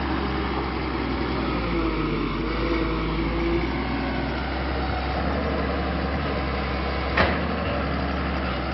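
Kobelco excavator's diesel engine running steadily, with a single sharp knock about seven seconds in.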